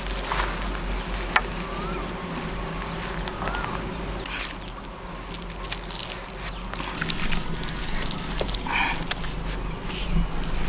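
Outdoor ambience with an insect buzzing, broken by occasional clicks and rustles of handling.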